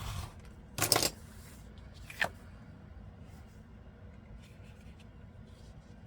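Paper and card pieces being handled and shuffled: a short rustle, a louder rustle about a second in, and a sharp tap just after two seconds, then faint small rustles.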